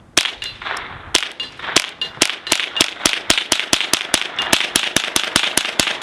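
Integrally suppressed Ruger 10/22 .22 rimfire rifle firing quickly: a string of sharp, subdued cracks that starts with a few spaced shots and speeds up to about four shots a second.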